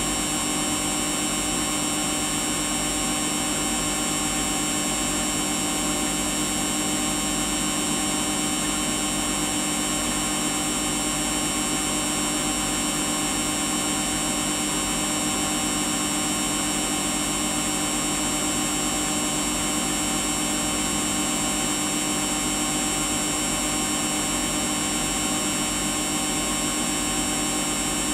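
Samsung washing machine running steadily through its Daily Wash 40 programme, its motor giving a constant whine that holds one pitch throughout.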